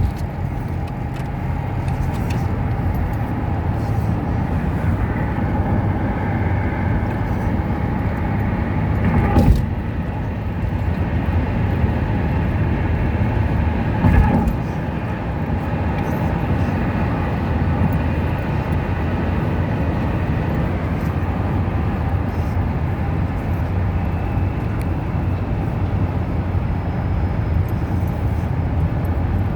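Car driving along a road: steady engine and tyre noise, with a faint steady hum. Two brief louder knocks come about nine and fourteen seconds in.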